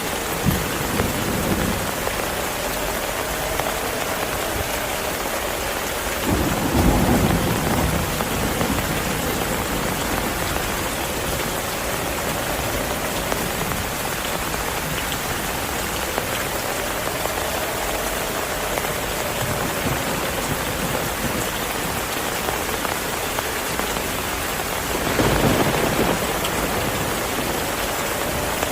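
Heavy rain falling steadily, with low rumbles of thunder about six seconds in and again near the end.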